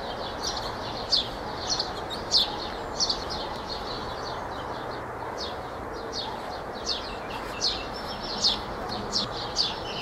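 Songbird chirping over and over, short high notes sliding downward, repeated about every half second, over a steady outdoor background hiss.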